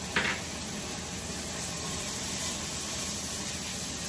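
Steady hiss of vegetables (bean sprouts) cooking in a hot pot on the stove. A short, sharp, loud burst of sound comes right at the start.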